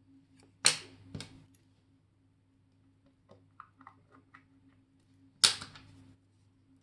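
Sharp clicks and taps of small metal tools and watch parts on a watchmaker's bench: two loud clicks about half a second apart near the start, a few faint ticks in the middle and another loud click near the end, over a low steady hum.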